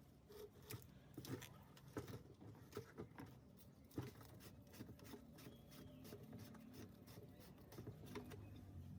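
Faint, irregular light clicks and taps, with sharper knocks about 2 and 4 seconds in, over a faint low hum.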